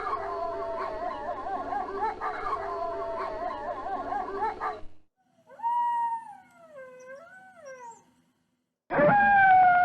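Wolves howling: a chorus of several overlapping, wavering howls for about five seconds, then a single howl that falls and rises again. Near the end, after a brief silence, a new loud howl starts and slides downward.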